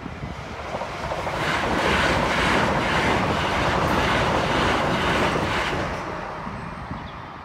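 Multiple-unit passenger train passing at speed over a level crossing. It swells up in the first two seconds, holds loud with a rhythmic clatter of wheels over the crossing and rail joints, then fades after about six seconds.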